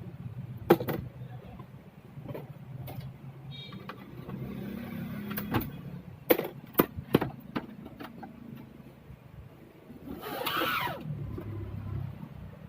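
Plastic monitor case being pried open by hand: a series of sharp clicks and snaps as the side clips let go, with a longer scraping sound near the end.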